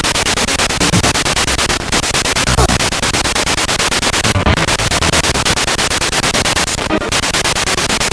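Spirit box radio sweeping rapidly through stations: loud static and hiss chopped into fast, even pulses many times a second, with brief snatches of broadcast sound between the sweeps.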